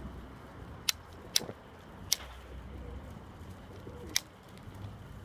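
Domestic pigeons cooing softly in a loft, with four sharp clicks about one, one and a half, two and four seconds in.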